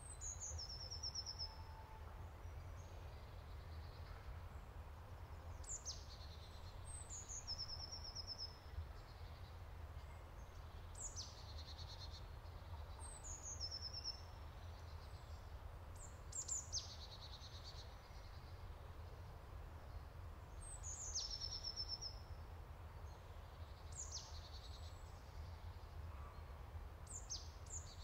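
A songbird singing short, high phrases that sweep down in pitch and end in a brief trill, repeated about every two to three seconds over a steady low rumble.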